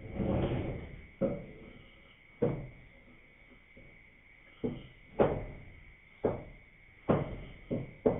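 A series of about eight sharp knocks at irregular intervals, each dying away quickly, over a faint steady high-pitched insect drone.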